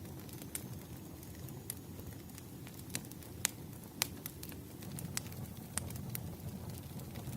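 Fireplace crackling: irregular sharp pops and cracks, loudest around the middle, over a low steady rumble of burning wood.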